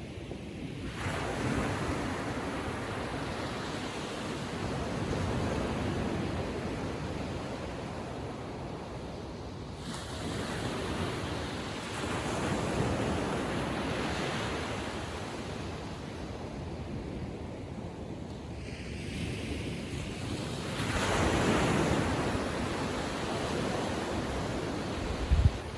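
Small ocean waves breaking and washing up the beach, the surf swelling and ebbing every few seconds, with some wind buffeting the microphone. A brief low thump comes near the end.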